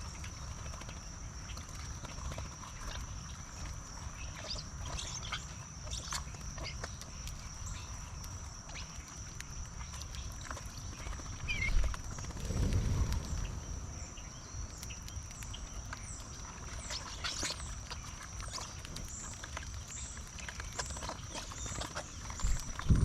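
Bird-feeder ambience: scattered short bird chirps and clicks of birds at the feeder over a low rumble, with a steady high-pitched whine throughout. A louder knock and rumble comes about halfway through.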